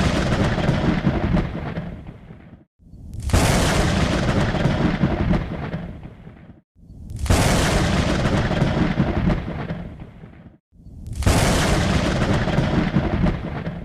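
Thunder rumbling in a repeating pattern. Each clap starts suddenly, rumbles for about four seconds and fades, then drops out briefly before the next, so it sounds like the same recording looping.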